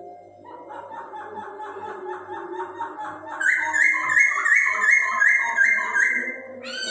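Poksay hongkong (Chinese hwamei) singing: a fast run of short, evenly repeated whistled notes that steps up to a louder, higher series about halfway through, then ends in a quick falling note.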